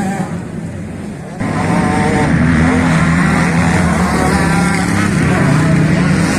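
Motocross bike engine running, quieter at first, then suddenly much louder about a second and a half in and holding a steady high pitch at high revs.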